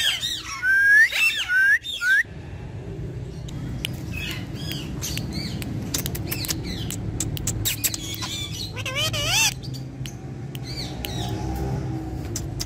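Ringneck parrot calling: loud gliding squawks and whistles for the first two seconds, then softer chirps over a steady low background noise, with one loud squawk about nine seconds in.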